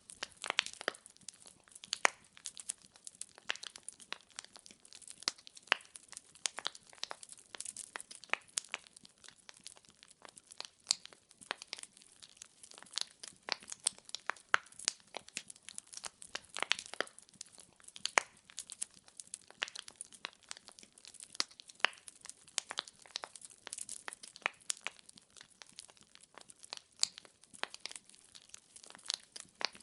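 Wood fire in a fireplace crackling, with frequent irregular sharp pops and snaps from the burning logs over a faint hiss.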